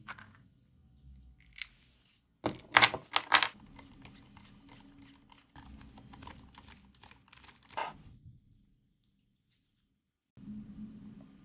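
Small metal parts of an old hand drill being handled: a cluster of sharp clicks and clinks about three seconds in, with single clicks before and after.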